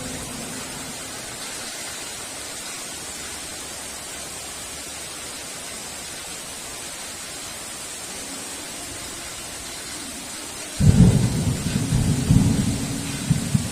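Steady heavy rain, then near the end a sudden loud low rumble of thunder that rolls on in waves.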